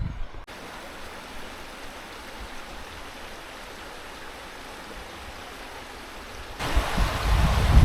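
River water running steadily with an even rush. Near the end it turns louder, with wind buffeting the microphone.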